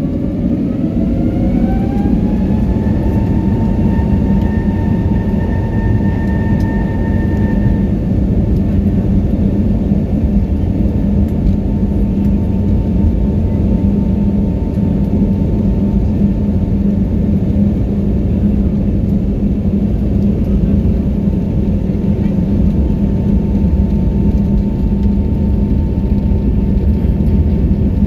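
Airliner jet engines heard from inside the cabin, spooling up to takeoff power: a whine rises over the first few seconds, then holds steady over a loud, constant rumble during the takeoff run.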